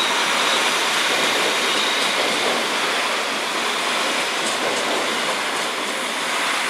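A red DB Regio multiple-unit train rolling past over the station tracks: a steady rushing noise of wheels on rail, with a faint high wheel squeal fading out early on.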